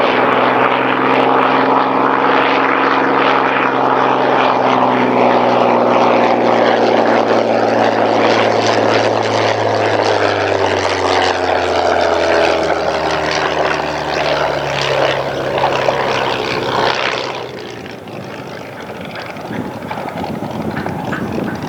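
Hawker Hurricane's Rolls-Royce Merlin V12 engine and propeller droning, the pitch falling slowly. The engine sound cuts off abruptly about 17 seconds in, leaving wind on the microphone.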